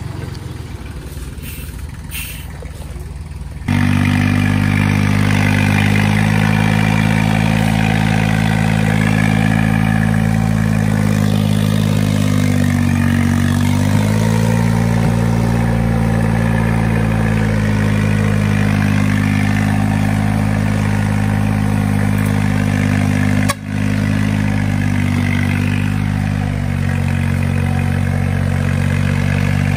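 A tractor's diesel engine running steadily, coming in abruptly about four seconds in. Its pitch dips briefly and recovers partway through, and the sound cuts out for an instant near the end.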